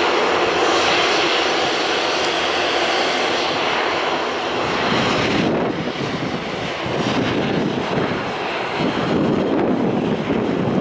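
Airbus A321-211 jet airliner at take-off thrust from its two CFM56 turbofans, a loud steady jet roar. About halfway through, the high-pitched part of the roar drops away, leaving a lower, wavering rumble as the aircraft climbs away.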